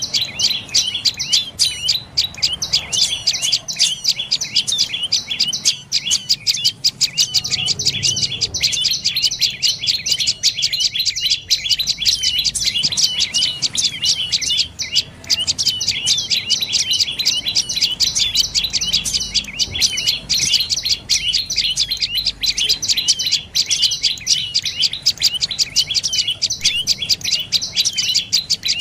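Dark-necked tailorbird calling: a rapid, unbroken series of short, high chirps.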